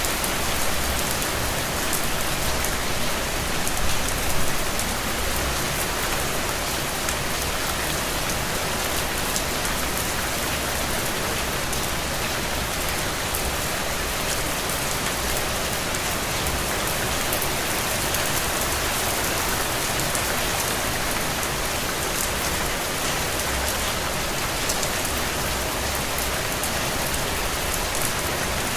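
Steady rainfall: an even, unbroken hiss of falling rain with many small drop ticks.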